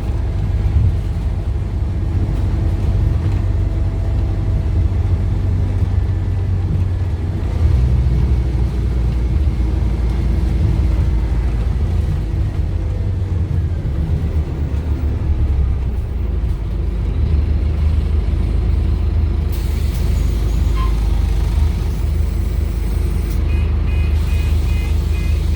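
Scania DC9 five-cylinder diesel engine of a Scania OmniCity double-decker bus running under way with its ZF Ecomat automatic gearbox, heard on board. The engine note changes about a third of the way in and then climbs in pitch as the bus pulls through the gears.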